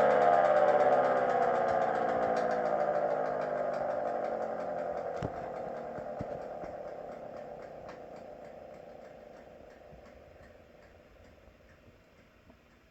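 GS CS-10V15QT electromechanical siren winding down after a full-pitch run: its wail falls steadily in pitch and fades out as the rotor coasts to a stop. A few sharp clicks and knocks come through about five and six seconds in, from a unit whose bearings are bad.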